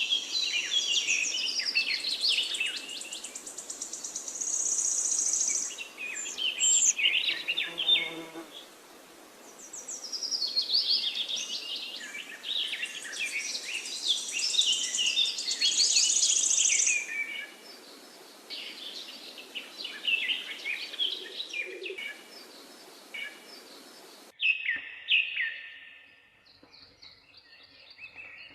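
Several birds singing and chirping at once, overlapping trills and whistled phrases, over a steady background hiss. About three-quarters of the way through, the hiss drops away abruptly and a single bird's song carries on more sparsely.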